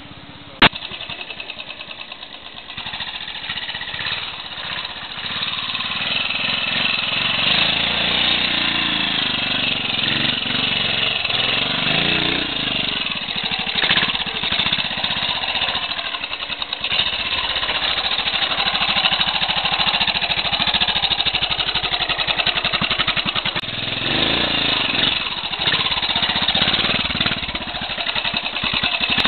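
Classic trials motorcycle engine running with a rapid, even firing beat, its revs rising and falling as the throttle is worked. A single sharp click comes less than a second in.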